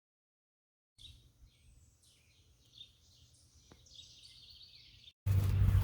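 Faint songbirds chirping in short high calls, then a little past five seconds in an abrupt switch to much louder outdoor background noise.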